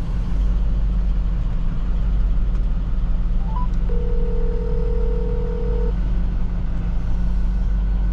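Plow truck engine running, heard from inside the cab as a steady low rumble. About four seconds in, a short chirp and then a two-second phone ringback tone sound as an outgoing call rings.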